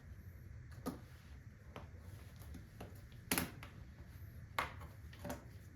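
New plastic bottle of engine oil being handled: a few short sharp clicks and knocks, the loudest about three seconds in, over a low steady hum.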